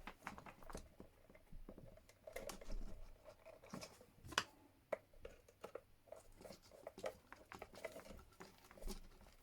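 Faint, scattered clicks and taps of hands fitting wires into a speed controller's terminals, with one sharper click about four and a half seconds in.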